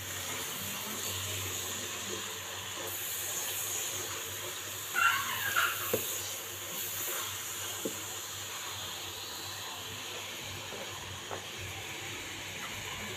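Grated tomato and green chillies sizzling steadily in hot oil in a pan, with a few faint clicks of the spatula against the pan as it is stirred. A brief high-pitched voice-like call about five seconds in.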